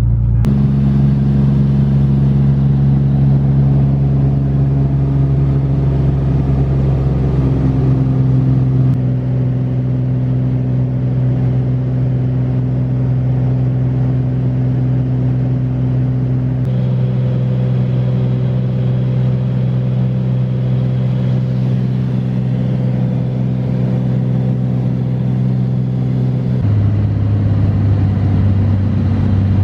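Engine and road noise inside a moving Toyota Corolla: a steady drone whose pitch steps up or down a few times as the car's speed and gearing change.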